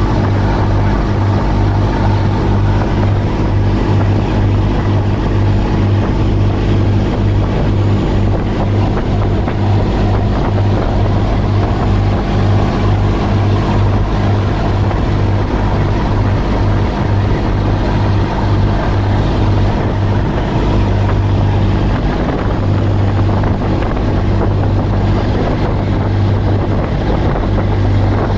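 Passenger boat's engine running steadily with a deep drone, mixed with the rush of water from the wake and wind buffeting the microphone.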